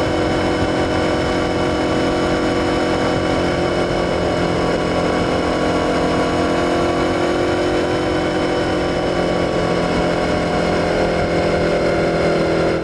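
Suzuki SV650's 645 cc V-twin engine running at a steady engine speed, its note holding level throughout.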